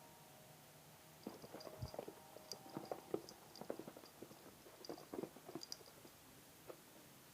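A cat scrabbling about: a flurry of light, irregular taps and clicks beginning about a second in, thinning out, with one last tap near the end.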